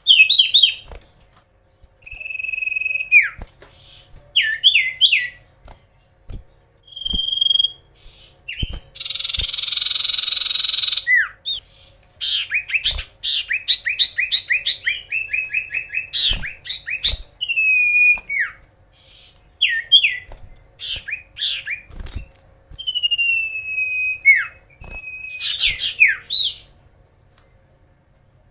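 Common iora singing in a long, varied run of clear whistled phrases, rapid trills and long falling whistles, with a harsh rasping burst about nine seconds in.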